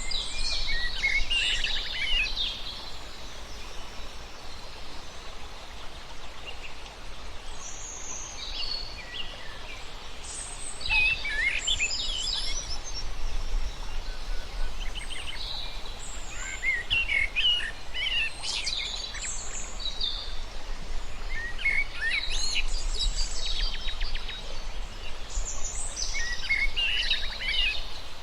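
Songbirds singing in bursts of quick chirps and trills, a new phrase every few seconds, over a low steady rumble.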